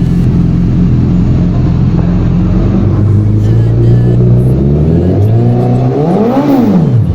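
A motor vehicle engine idling with a fluttering beat. From about halfway through it climbs in pitch, then is blipped once near the end, the pitch rising sharply and dropping straight back.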